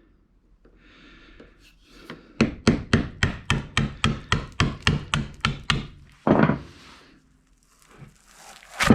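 Rapid, even strokes, about four or five a second, as the taped template and the routed aluminum plate are worked apart, followed by a louder scrape and a sharp knock near the end.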